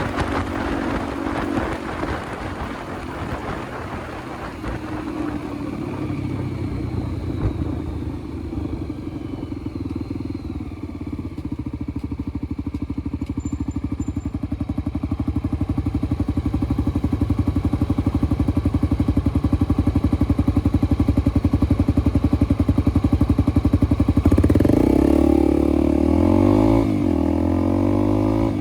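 Motorcycle engine running on the move, getting steadily louder through the middle stretch. From about 24 seconds in, its pitch rises and falls with the throttle.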